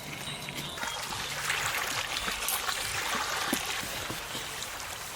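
Water trickling and splashing, strongest through the middle, with a few light clicks.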